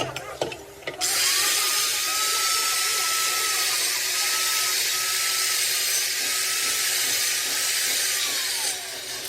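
Electric power tool running under load for about eight seconds: a loud, steady hiss over a high motor whine. The whine falls away near the end as the motor spins down.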